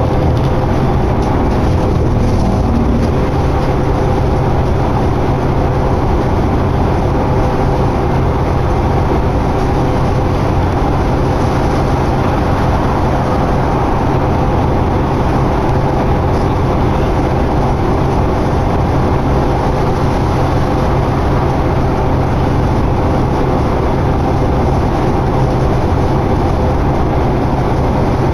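A 2011 New Flyer D60LFR articulated diesel bus, heard from inside, running steadily at speed: an even engine drone and road noise with a faint steady hum.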